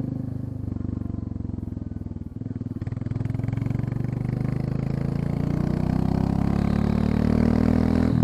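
Royal Enfield Classic 350 single-cylinder engine under way with its end muffler removed (catalytic converters still fitted), very loud. The exhaust note dips about two seconds in, then climbs steadily in pitch for several seconds as the bike accelerates.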